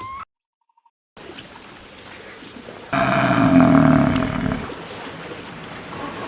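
A large animal's low, drawn-out call lasting nearly two seconds, coming after a short break of silence.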